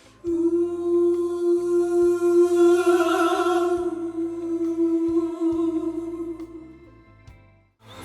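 A soprano voice holds one long sung note without words, wavering slightly midway and fading out near the end, over a quiet low accompaniment.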